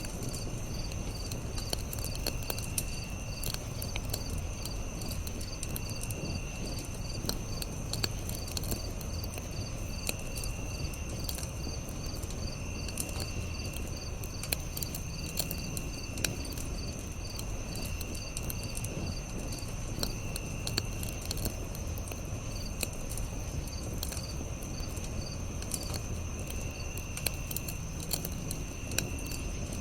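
Campfire crackling with scattered sharp pops, over a steady chorus of crickets and other insects: a constant high chirring, a fast pulsing chirp, and a lower trill that comes and goes every couple of seconds.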